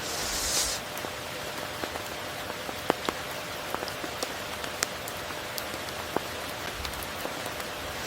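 Steady rain, with single drops ticking sharply here and there and a brief swell of hiss in the first second.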